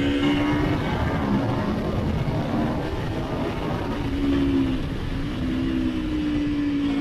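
Motorcycle engine running under way, its note buried in heavy wind and road noise; the engine note drops briefly a little before five seconds in, then picks up again and holds steady.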